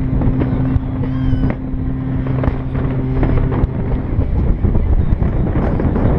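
A steady low drone, one pitch with an overtone, that stops about four seconds in, over a noisy wash of wind on the microphone, with scattered sharp pops.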